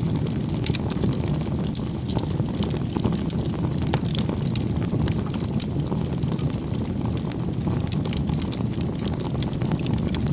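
Wood fire burning, with a steady low rumble and frequent crackling pops.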